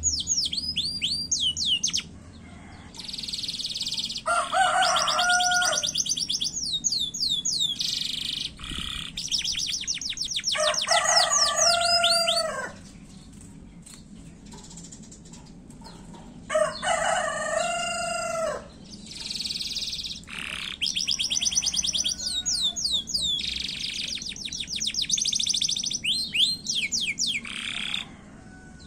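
Domestic canary singing in fast, short-phrased trills of rapidly repeated high notes. Three times, lower, drawn-out slurred phrases break in among the trills.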